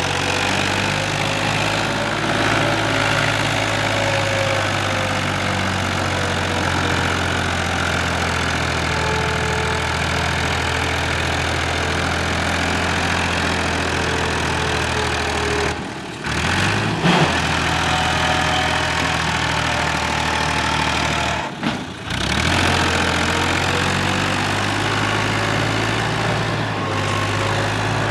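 Fiat 480 tractor's diesel engine running steadily, its speed slowly sagging and later picking up again. The sound drops out briefly twice in the second half.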